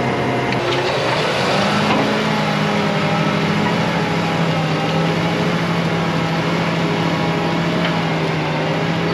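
Tractor engine running steadily under load, its pitch rising about a second in and then holding.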